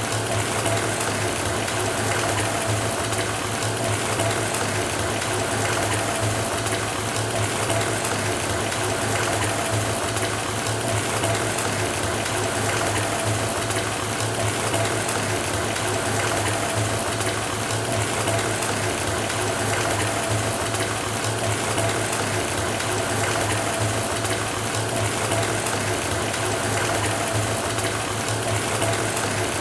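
Water pouring steadily from a faucet into a filling bathtub, with a constant low hum underneath.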